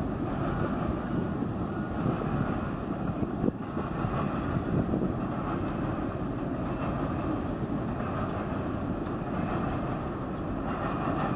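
Freight train cars rolling past: a steady rumble of wheels on the rails.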